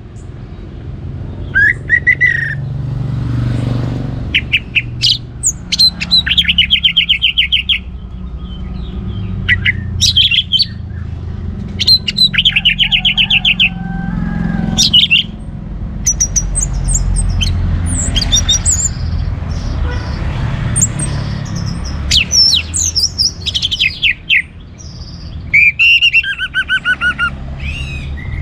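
Orange-headed thrush singing a long, varied song: fast rattling trills alternate with sharp high notes and whistled glides, phrase after phrase with short gaps. A steady low rumble runs underneath.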